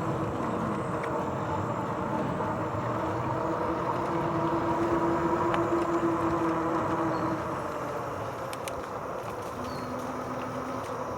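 RadRover 5 e-bike riding along a trail: fat tyres rolling over leaves with the steady whine of the geared rear hub motor. About two-thirds of the way through the whine fades and the sound gets quieter. A few sharp clicks follow, and a lower hum comes in near the end.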